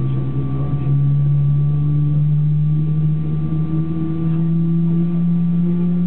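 GE90 turbofan engine of a Boeing 777-200LR spooling up during engine start: a loud, steady low hum that rises slowly and evenly in pitch over a constant rumble.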